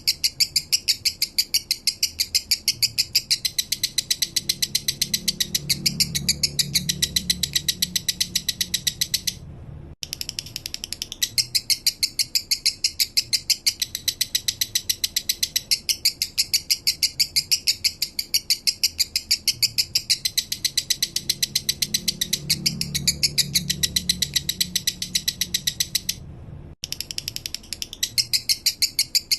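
Male lovebird singing a long, flowing 'minor'-style song: a fast run of evenly spaced high chirps, about five a second. The song breaks off briefly twice.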